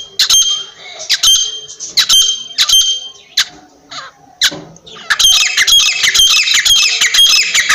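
Francolin (teetar) calling: repeated shrill, harsh calls, spaced out at first, then a rapid, dense run of calls from about five seconds in.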